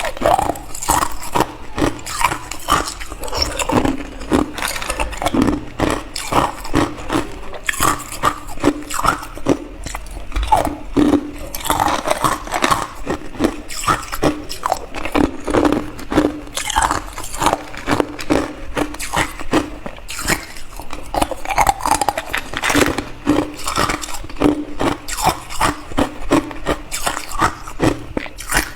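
Hard clear ice being bitten and chewed close to the microphone: a continuous run of crisp crunches and cracks, several each second.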